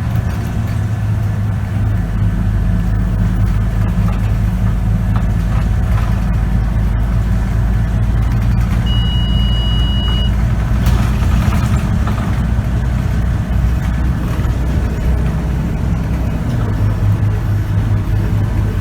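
Scania K94UB city bus engine running under way, heard from inside the bus, its low note easing off about three-quarters of the way through and picking up strongly again near the end. About nine seconds in, a single steady electronic beep sounds for about a second.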